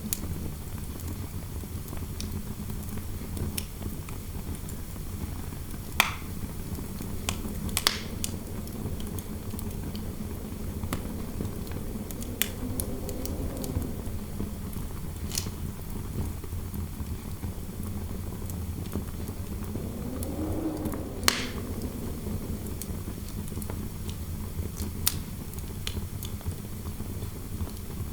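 Fireplace crackling with sharp, scattered pops over a steady low rumble of wind. Twice, a soft wind howl swells and fades.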